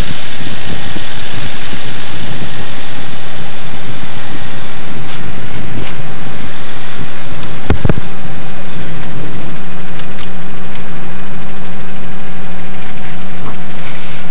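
Cessna 185's air-cooled flat-six piston engine idling steadily while warming up after a cold start. A single sharp thump about eight seconds in.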